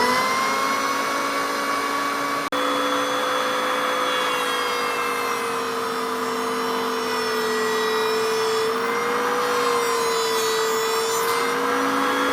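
A handheld electric power tool settling at full speed after spin-up and running with a steady high-pitched whine. Its pitch sags slightly now and then as it takes load, and it breaks off for an instant about two and a half seconds in.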